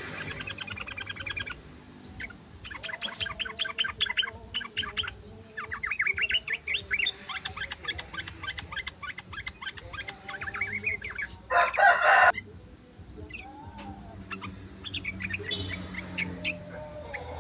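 Yellow-vented bulbuls chattering in repeated bursts of rapid, fast-repeated notes. Past the middle comes one short, loud, harsh call.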